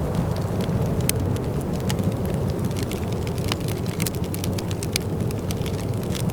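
Wood fire crackling in a fireplace: frequent sharp irregular pops and snaps over a steady low rumble.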